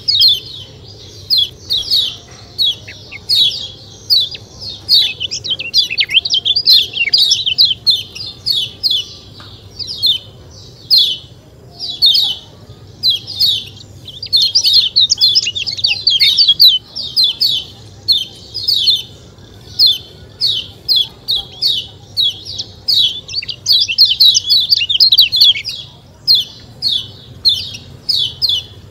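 Kecial kuning white-eye chattering: rapid strings of short, high 'ciak ciak' chirps, each sliding down in pitch, given in quick bursts with short pauses between them.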